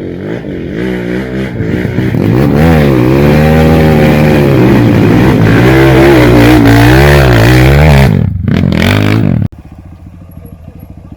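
Trail motorcycle engine revved hard in repeated rising and falling surges. At about nine and a half seconds it cuts abruptly to a much quieter, steady low engine note.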